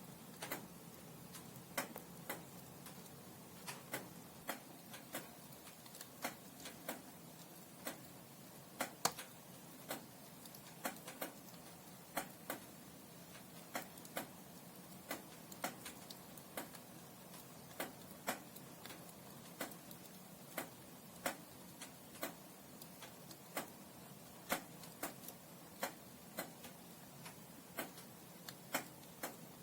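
Burning logs crackling in a fireplace: irregular sharp snaps and pops, two or three a second, over a soft steady hiss.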